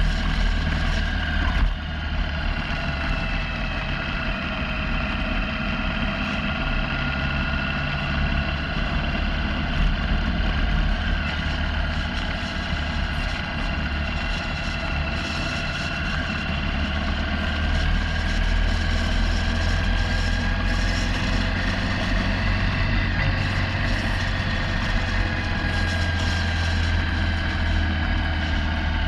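Motorcycle engine running steadily on the road, its pitch drifting gently up and down, over a constant deep rumble.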